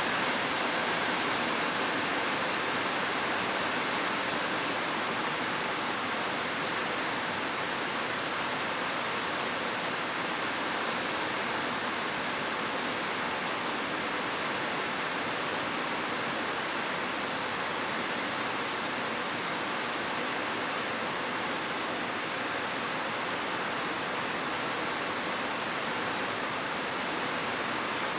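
Heavy rain falling, a steady, even hiss with no distinct drops or thunder.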